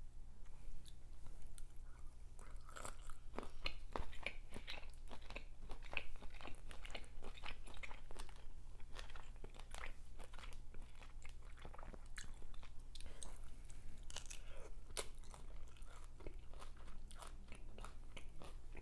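Close-up mouth sounds of someone eating boiled seafood: a continuous run of crunching and wet chewing clicks.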